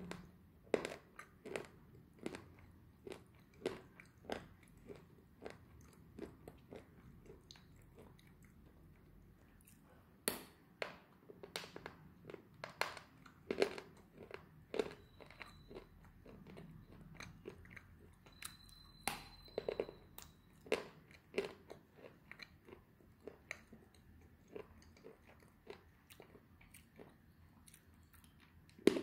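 A person chewing slate pencils close to the microphone: a run of sharp, dry crunches, irregular, about one to two a second.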